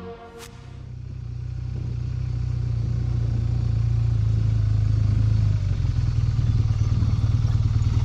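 Motorcycle engine running at low revs, growing louder over the first five seconds and then holding steady, after a short click about half a second in.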